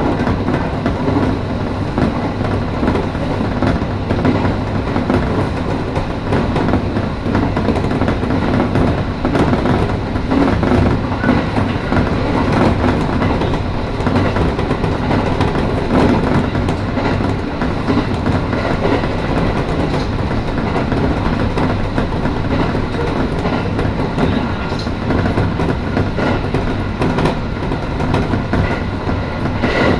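Electric train running along the line, heard from inside the front car: a steady rumble of wheels on rail and running gear, with faint knocks now and then.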